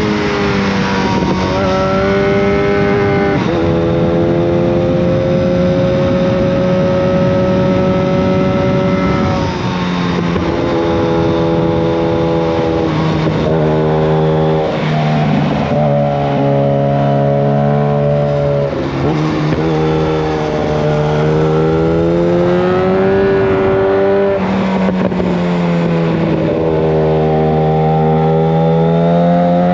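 Yamaha FZ1 Fazer's inline-four engine through a Mivv GP exhaust with the dB killer removed, loud, pulling up through the revs and dropping back several times as the rider accelerates and shifts gear.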